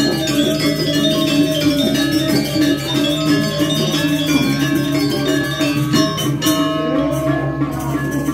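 Balinese gamelan playing continuously: a dense layer of ringing metallophone tones over a steady low hum.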